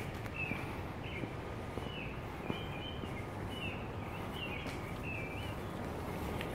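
A small bird chirping, short repeated notes roughly one or two a second, over steady low outdoor noise and the walker's footsteps on the paved path.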